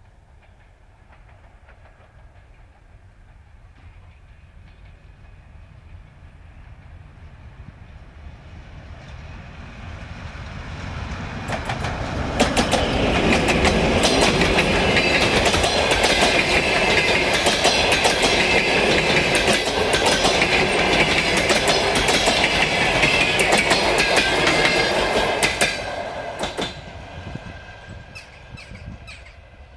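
A TEP70 diesel locomotive and its passenger coaches approaching, passing close by and receding. The sound swells over about twelve seconds. The wheels then clatter over the rail joints in a rapid clickety-clack for about thirteen seconds before it fades.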